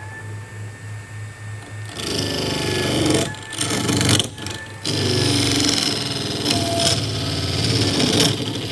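Power tool working wood, running in several stretches with short breaks, after a quieter rhythmic hum in the first two seconds.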